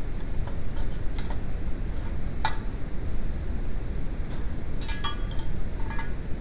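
Metal hand tools clinking lightly a handful of times over a steady low rumble.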